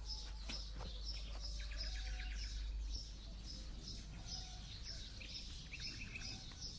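Faint birdsong: a high chirp repeated evenly, a little over twice a second, with two short trilled phrases, one about two seconds in and one near the end.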